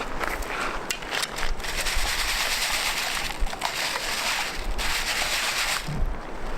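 Water sloshing and splashing, with a louder stretch of rushing from about two seconds in that drops away just before six seconds, and scattered clicks.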